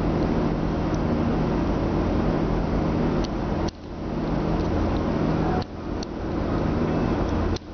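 Bosch electric radiator cooling fan running at full speed, a steady rush of air over a GAZelle's idling UMZ-4216 engine. The fan has switched on at 92 °C to pull down the temperature of an engine prone to overheating at idle in the heat. The sound dips sharply three times and picks up again within a moment.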